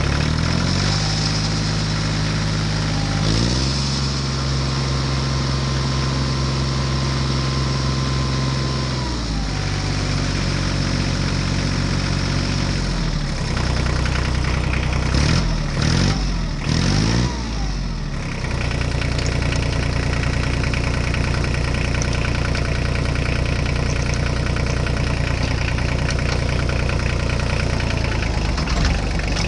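Engine running at idle, its speed stepping up and down several times, with a few quick revs about halfway through before it settles into a steady idle.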